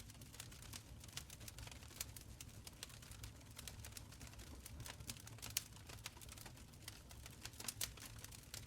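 Wood fire in a stone fireplace crackling: quick irregular pops and snaps over a soft low rumble of burning.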